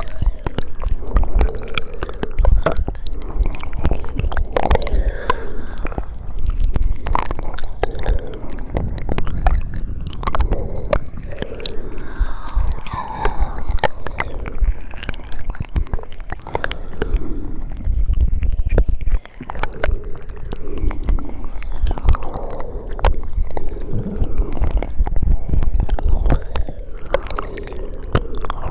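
ASMR mouth sounds: a steady run of wet clicks, smacks and tongue sounds, irregular and close together, with a short pause about two-thirds of the way through.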